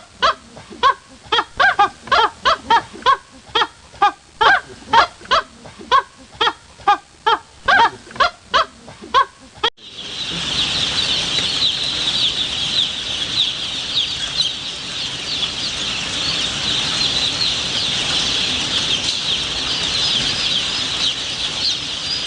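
A bird repeatedly honking, about two and a half calls a second. About ten seconds in it cuts abruptly to a dense, continuous chorus of many high-pitched chirps.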